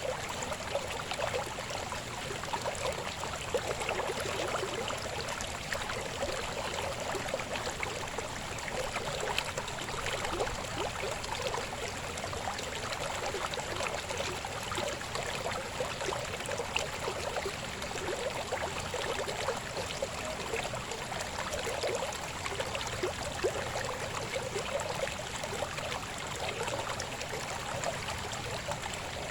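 A shallow river babbling steadily over rocks, a continuous splashing and gurgling rush of water.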